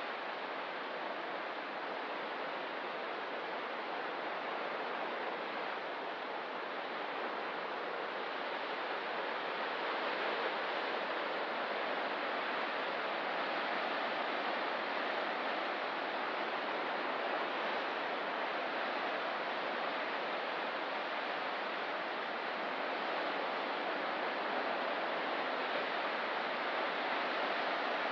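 Ocean surf: a steady, even wash of waves, growing a little louder about ten seconds in.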